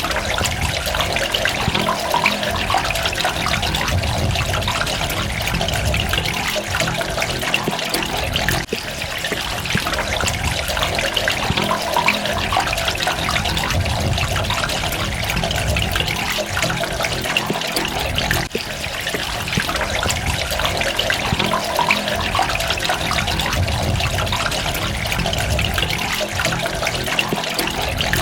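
Water running and trickling steadily: a constant splashing with many small drips and droplets, and a low rumble that swells and fades every few seconds.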